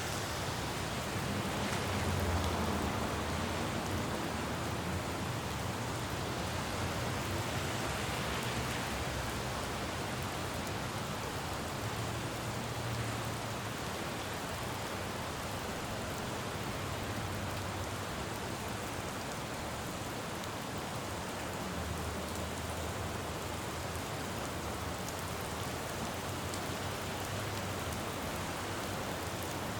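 Steady rain falling on a road, an even hiss, with the low rumble of traffic swelling and fading as vehicles pass every several seconds.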